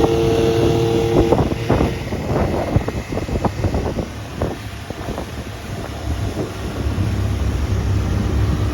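Wind buffeting the microphone over the low running of a motorboat's engine. A steady hum cuts off about a second in, and a scatter of light knocks and clicks follows through the middle.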